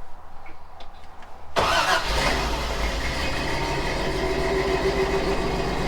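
Toyota FJ40 Land Cruiser's engine comes in suddenly about a second and a half in, then runs steadily.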